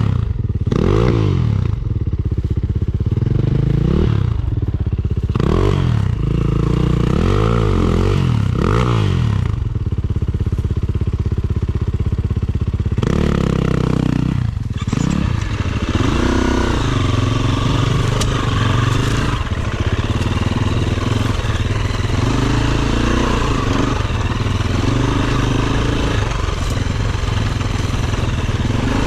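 Dirt bike engine revving up and down in a string of short rises and falls. About halfway through it runs more continuously at varying speed.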